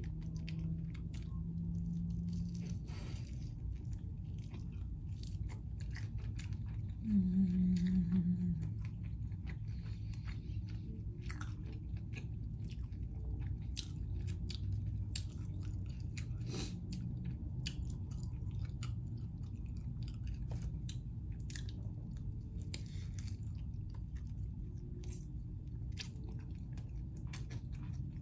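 Close-up mouth sounds of a person eating a buffalo chicken wing: wet chewing with many small clicks and smacks, and bites pulling meat off the bone. About seven seconds in comes a short low hum, the loudest sound.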